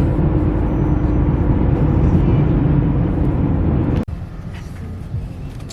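Loud low rumble of a motor vehicle, with a faint steady hum through it. About four seconds in it cuts off abruptly to a much quieter background.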